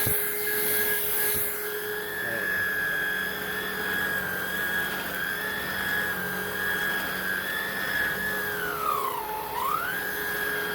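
Hoover React cordless upright vacuum running on a rug with a steady high whine. About nine seconds in, the pitch sweeps down and back up as the machine's FloorSense changes speed on its own, which the owner takes for the sensor mistaking the carpet for hard floor.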